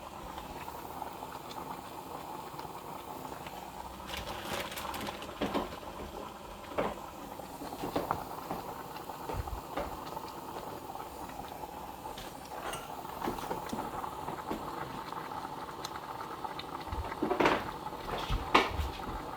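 Steady bubbling of a pot on the stove melting soy wax, with a few scattered clinks and knocks of a cup and utensils against the pot as more wax is added.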